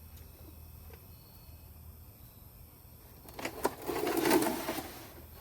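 A short burst of rustling and clattering, beginning about three seconds in and lasting about a second and a half, as parts are handled and picked up.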